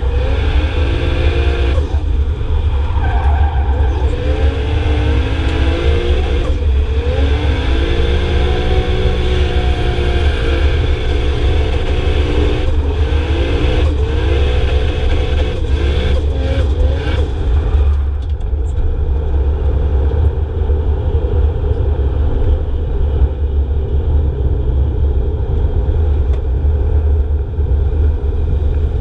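Drift cars at a race circuit: engines revving up and down with tyre screech for the first two-thirds, then settling to a steadier, duller engine drone, all over a constant heavy low rumble.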